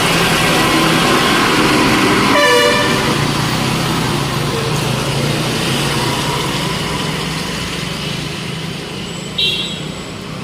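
Street traffic: vehicle engines running under a steady wash of road noise, with a vehicle horn honking briefly about two and a half seconds in and a shorter, higher horn toot near the end.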